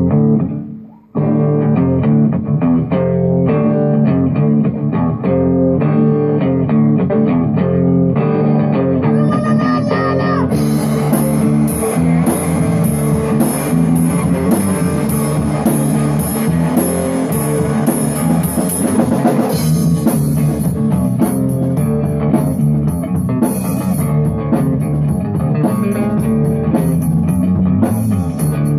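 Three-piece rock band playing an instrumental passage: guitar and bass guitar playing a riff, with the drum kit coming in about ten seconds in and cymbals keeping a steady beat.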